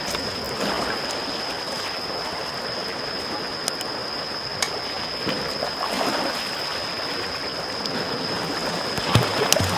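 Small waves lapping and washing on a shore, with a couple of louder washes, one around six seconds in and a bigger one near the end. Over it a campfire crackles with scattered sharp pops, and a steady high thin tone runs underneath.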